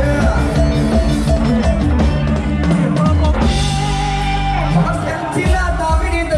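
Live lam sing band playing an instrumental passage: a drum kit keeps a steady beat under the melody instruments, with a held chord about halfway through before the beat comes back.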